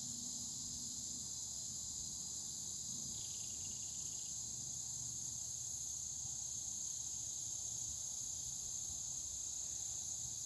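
Steady, high-pitched chorus of insects droning without a break, over a faint low rumble.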